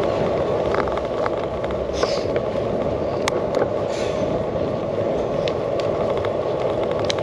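Bicycle rolling over a rough, bumpy track, heard from a handlebar-mounted camera: a steady tyre rumble with scattered sharp clicks and rattles from the bike jolting over the surface.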